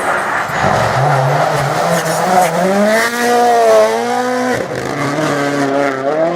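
Rally car engine under hard acceleration, its pitch climbing steadily, dropping sharply at a gear change about four and a half seconds in, then climbing again.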